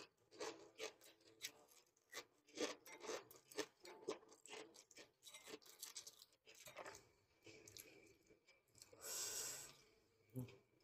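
Faint close-up eating sounds: soft chewing and wet mouth clicks, with light ticks and taps while a balut egg is handled and cracked with a spoon, and a short louder rushing sound about nine seconds in.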